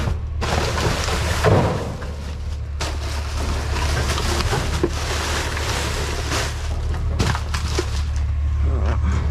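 Rummaging through trash in a dumpster: rustling bags and debris with scattered light knocks and clatter, over a steady low hum.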